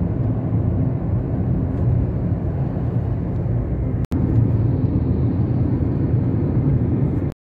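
Steady low rumbling noise without a clear pitch. It breaks off for an instant about four seconds in and cuts off suddenly near the end.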